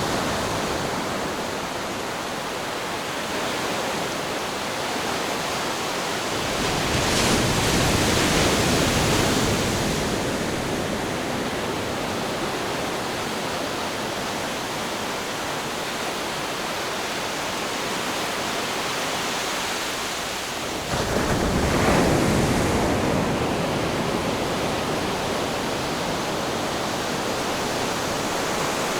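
Ocean surf, a steady wash of water with two louder waves: one building and breaking about seven seconds in, and another crashing in suddenly about three quarters of the way through, then washing away.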